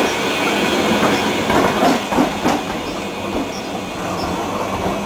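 The Sóller railway's wooden electric train rolling past at close range, its wheels rumbling and clattering over the rail joints, with a few sharp knocks around the middle. The level eases slightly near the end.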